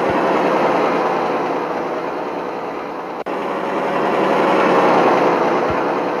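Mitsubishi Fuso truck's diesel engine running steadily, growing louder around five seconds in, with a brief dropout a little after three seconds.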